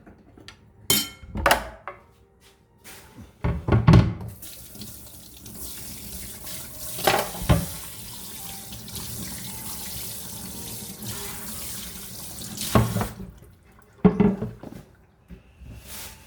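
Kitchen tap running into the sink for about nine seconds, with knocks and clatters of dishes before, during and after.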